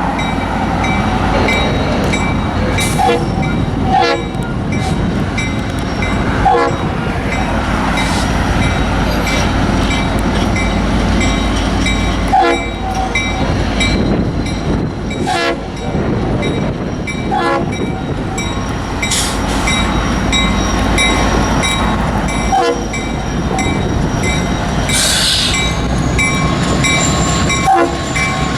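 A train rolling past close by: a steady heavy rumble of wheels on rail, with sharp clicks every second or few as the wheels cross rail joints.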